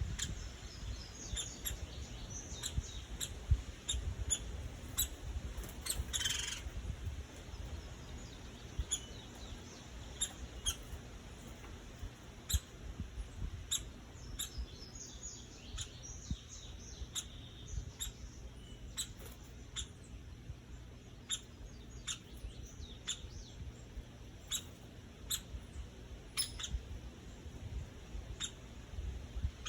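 Bird chirping, with sharp short ticks about once a second and a brief burst of noise about six seconds in.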